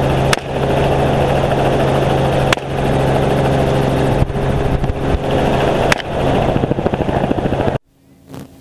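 Helicopter in flight, its rotor and engine loud and steady. Three sharp cracks, AR-15 rifle shots, come through it: one just after the start, one in the middle and one near the end.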